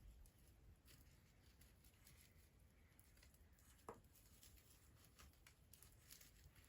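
Faint crackling of a wood bonfire: scattered soft ticks and pops, with one sharper snap about four seconds in.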